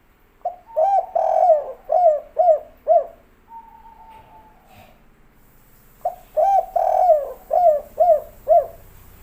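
Spotted dove (tekukur) cooing in its 'kuk 3' song type: two phrases a few seconds apart, each a short note, one long drawn-out coo, then three short clipped coos.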